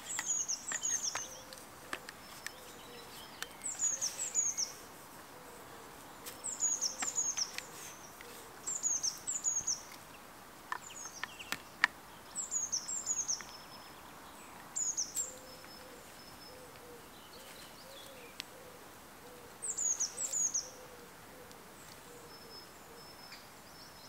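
A small songbird repeats a short phrase of two or three high, quickly falling notes every couple of seconds. Behind it a faint, low, wavering cooing call carries on, and there are a few sharp clicks and rustles of camera gear being handled.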